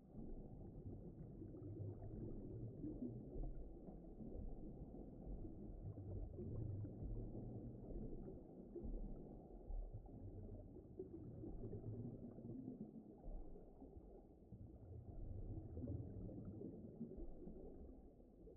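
Faint, low, muffled rumbling of a deep-underwater ocean ambience, swelling and ebbing unevenly with nothing high-pitched in it.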